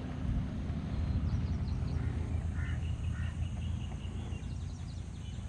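Birds calling outdoors: a few short calls repeated about every half second in the middle of the stretch, over a steady low rumble.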